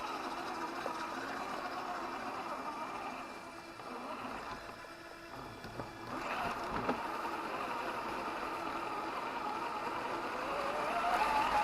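A 1/10-scale RC crawler's electric motor and gears whining, the pitch rising and falling with the throttle. It goes quieter for a couple of seconds in the middle, and there is a short knock about seven seconds in.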